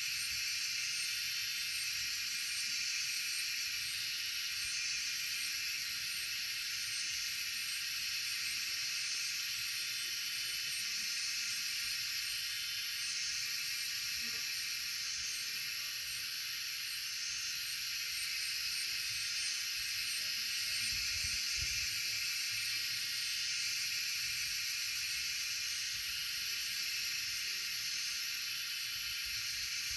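Outdoor ambience: a steady, high-pitched hiss, with faint low wind rumble that swells for a moment about twenty seconds in.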